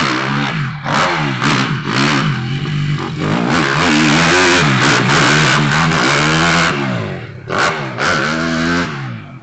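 Small off-road motorcycle (pit bike) engine revving up and down over and over as the rider works the throttle over the dirt jumps, loudest in the middle as it passes close.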